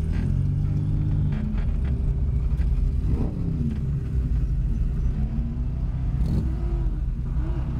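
1983 Porsche 911 Turbo's 3.3-litre air-cooled turbocharged flat-six running at low revs as the car rolls slowly, a steady rumble heard from inside the gutted race cabin.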